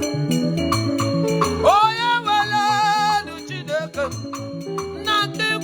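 Igbo gospel worship music: a band plays a steady, quick beat with percussion and bass. About two seconds in, a voice slides up into a long held note with vibrato, followed by short sung phrases.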